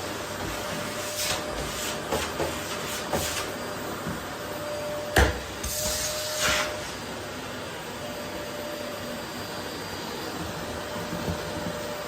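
Vacuum cleaner running steadily over a wooden floor, a steady hum under its hiss. Several sharp knocks and clicks come through it, the loudest about five seconds in, followed by a brief hissing rush.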